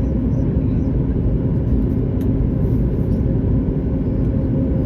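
Steady cabin noise inside a Boeing 737-9 MAX airliner: a constant low rumble of engine and airflow with a steady hum.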